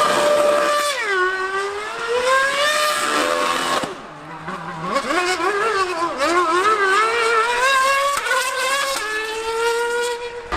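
Formula One car and Yamaha R1M inline-four superbike engines racing at high revs. Their pitch climbs, drops suddenly at each gear change and climbs again, and it dips quieter for about a second near the middle.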